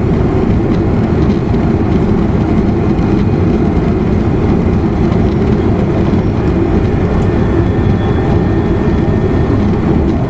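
Running noise inside an E259 series Narita Express motor car at steady speed: an even, loud low rumble of wheels and running gear on the rails, with faint steady tones above it.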